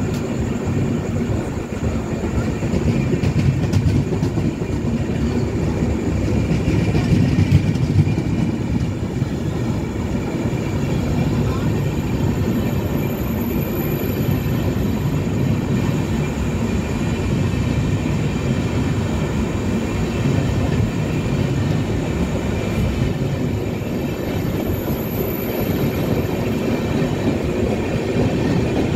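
Indian Railways passenger train passing close by at speed: a steady, loud rumble of coach wheels running on the rails, with a faint high metallic ring over it.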